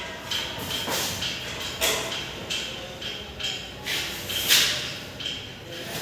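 Irregular metallic clicks and knocks from hand tools working on a petrol engine, some with a brief ringing; the loudest knock comes about four and a half seconds in.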